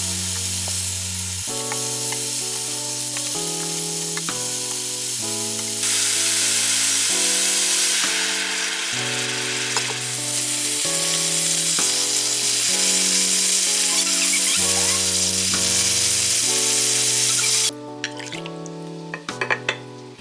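Food sizzling as it fries in a pan, under background music with slow, sustained chords. The sizzle cuts off suddenly near the end, and a few light clinks follow.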